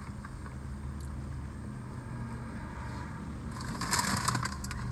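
Car engine idling with a steady low hum, heard inside the cabin, with a brief noise about three and a half seconds in.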